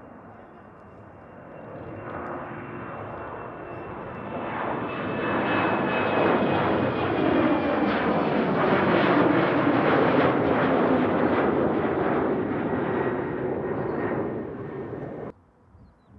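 Regional jet's twin turbofans passing close: a roar with a high whine that swells over several seconds to a peak about ten seconds in, then cuts off abruptly near the end.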